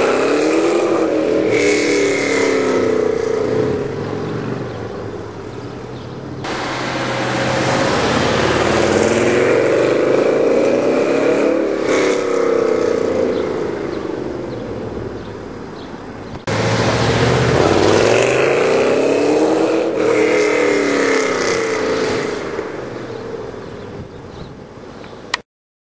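A 1967 Corvette's 532-cubic-inch V8 on an open off-road exhaust, driving past three times. Each pass has the exhaust note rising in pitch as the car comes on and falling as it goes away. The sound breaks off abruptly twice between passes and cuts out completely just before the end.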